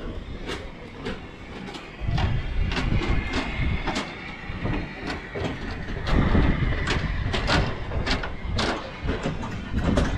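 Cabin noise inside a Boeing 737-800 on the ground: a low rumble that grows louder about two seconds in, a faint steady whine, and repeated knocks and rattles, roughly one or two a second.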